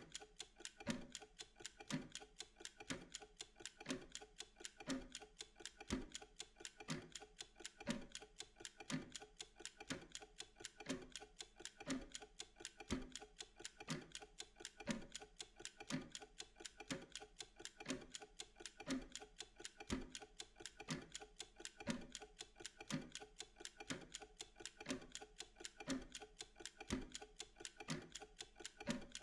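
Mechanical kitchen timer (pomodoro timer) ticking: a fast, even run of faint ticks, with a stronger tick about once a second, counting down a work interval.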